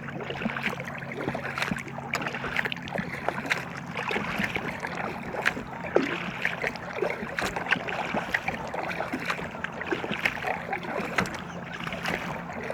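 Water splashing and lapping around an inflatable kayak, with many small irregular ticks and clicks.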